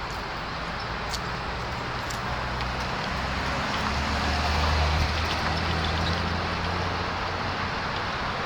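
A car engine running at low, steady revs, getting louder about halfway through and then easing a little, over a hum of other idling cars and traffic.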